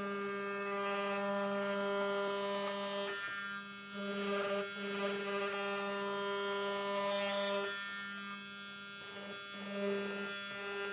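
Electric hair clippers buzzing steadily while trimming the fuzzed carpet on a car door trim. The hum briefly dips and swells a few times as the blades are worked over the carpet.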